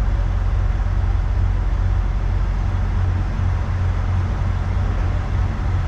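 A vehicle engine running steadily, a low unbroken drone.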